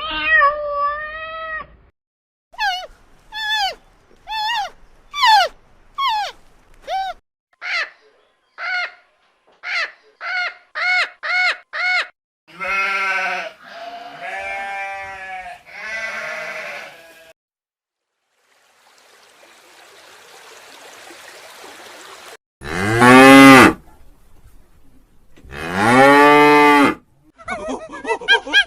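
A string of different animal calls, cut one after another. First comes a run of short, falling calls that speed up, then three longer calls, a stretch of hiss, and two loud, long, low calls.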